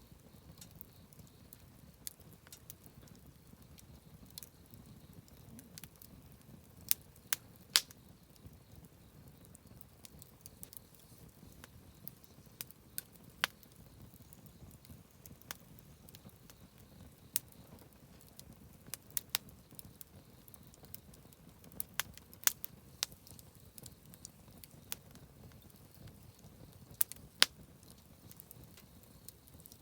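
Wood campfire crackling: irregular sharp pops and snaps over a low, steady rush of burning, with a handful of louder pops.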